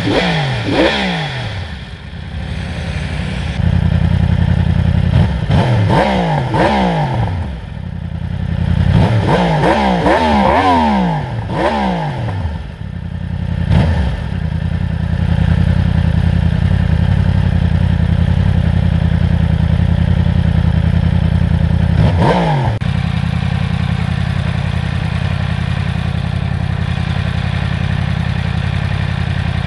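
Yamaha R1's crossplane inline-four, breathing through an Akrapovič slip-on exhaust, being blipped several times in quick revs that fall straight back to idle, in the first half and once more a little past two-thirds. Between the revs it idles steadily.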